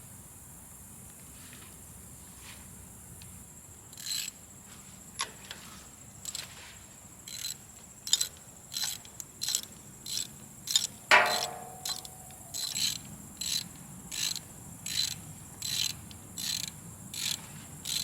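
Ratchet wrench clicking in short repeated runs as spark plugs are screwed down into the engine head, starting about four seconds in, with a sharper metallic clink about eleven seconds in.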